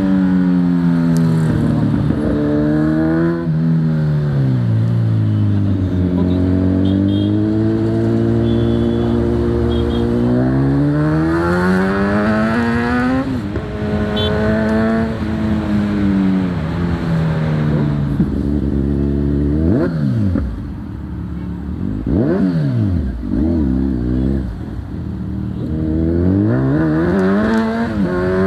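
Kawasaki Z900's inline-four engine through an Akrapovic full-system exhaust, loud. The engine pitch rises and falls several times as it revs up and eases off, with a run of quick short revs about two-thirds of the way through.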